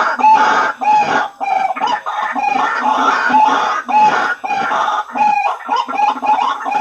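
White-breasted waterhen calls played as a bird-trapping lure: a fast, unbroken run of loud, harsh repeated notes, about three a second, with the calls overlapping.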